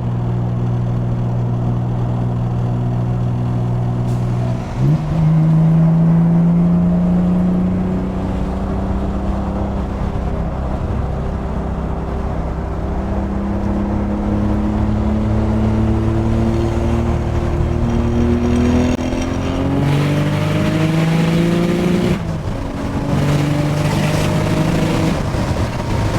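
Nissan 300ZX twin-turbo V6 with dump-to-atmosphere wastegates, heard from the driver's seat under hard acceleration. It cruises steadily, jumps in revs about five seconds in, then climbs in pitch through long pulls, with gear changes late on.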